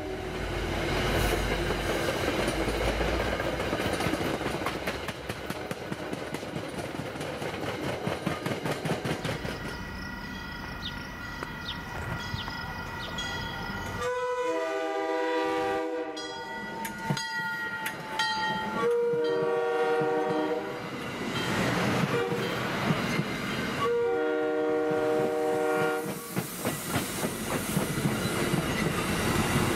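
An MBTA commuter train rolling past, its wheels clacking over the rail joints as the last coaches go by. Then an approaching commuter train's locomotive horn sounds several long blasts and a short one, and the train's wheels clatter past near the end.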